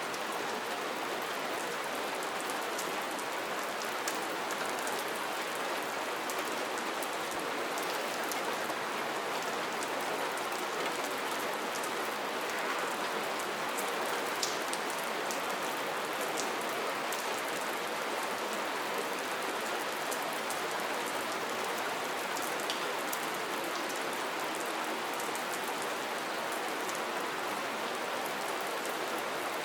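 Steady rainfall, an even hiss of rain with many small drop patters on a surface.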